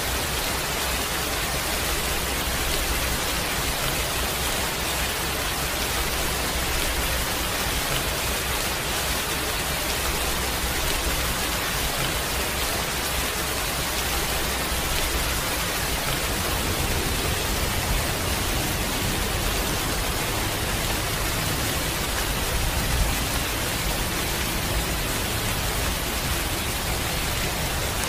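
Heavy rain falling steadily: an even, dense hiss.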